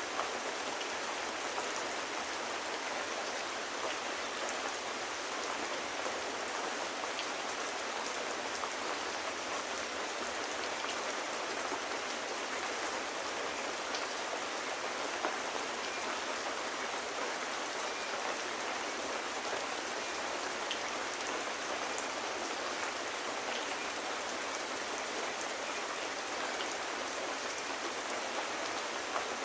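Steady, even rain falling, with a few faint scattered ticks.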